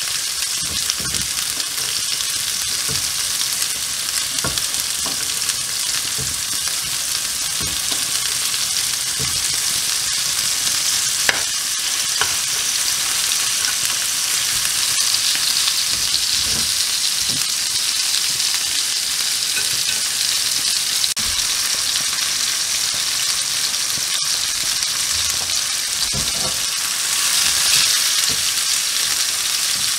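Minced-meat kebab patties sizzling steadily as they fry in butter and oil in a ridged grill pan, with a metal spoon basting them and now and then lightly clicking against the pan.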